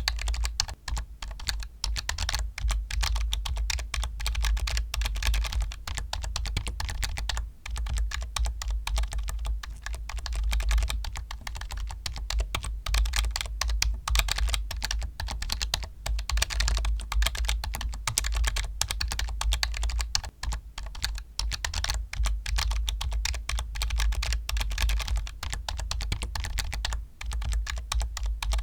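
Continuous fast typing on a computer keyboard: a dense, even stream of key clicks with no pauses.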